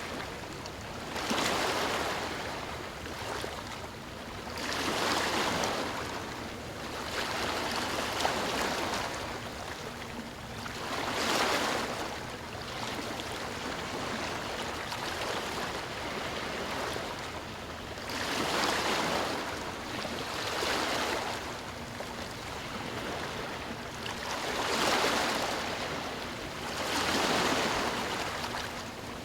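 Sea waves breaking and washing up a shore: a steady rush of surf that swells into louder crashes at uneven intervals of a few seconds, about eight in all.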